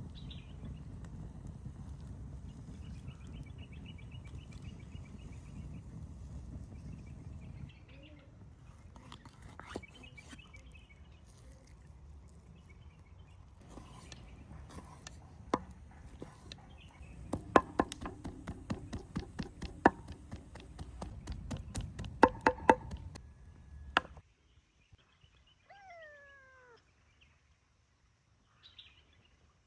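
Hand-chopping beef with a knife on a board: sharp chopping strokes that come quickly and loudly in the middle, over a low steady outdoor rush. Near the end it goes almost quiet, and a single short call falls in pitch.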